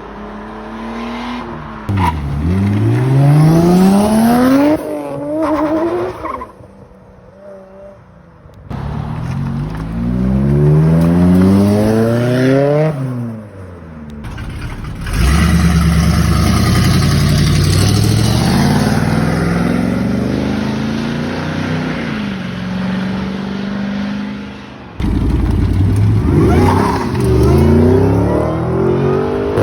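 Car engines revving hard and accelerating in a series of separate clips cut together, the engine note climbing steeply and dropping again several times.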